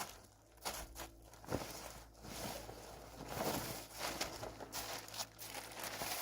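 Large plastic sheeting crinkling and rustling as it is dragged and unfurled by hand, with a few sharp crackles along the way.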